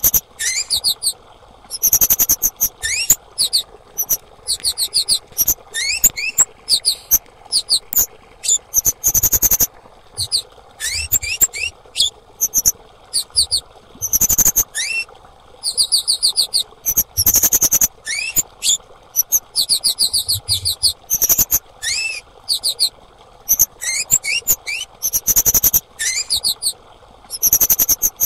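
Female kemade songbird calling: repeated bursts, each a second or so long, of rapid, very high sweeping notes, with short upward chirps in between.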